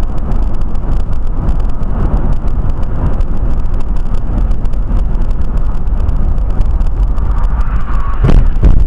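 A moving car, with loud steady road and engine noise. There is a sharp thump near the end.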